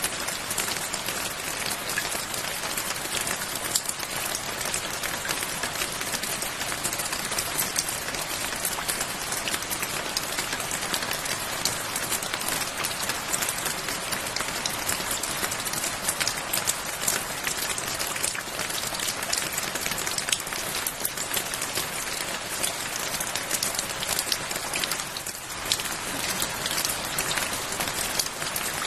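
Steady rain falling on a surface, an even hiss dense with the ticks of individual drops. It dips slightly for a moment near the end.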